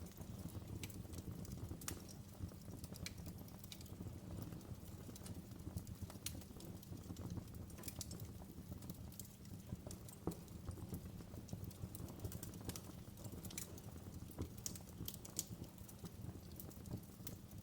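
Wood fire in a fireplace crackling: frequent irregular sharp pops and snaps over a steady low rumble of the burning fire, with the loudest pop about ten seconds in.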